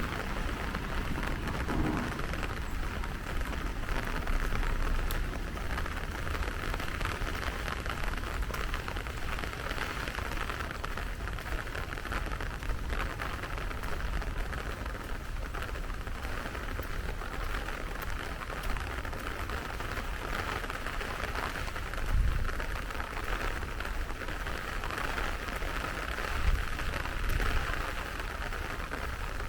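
Heavy rain falling steadily, an even hiss of drops, with a couple of brief low thumps near the end.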